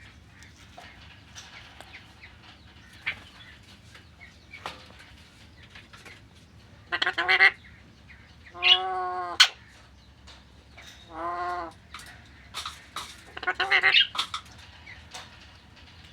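Young Alexandrine parakeet calling in four short bouts in the second half, with faint clicks in between.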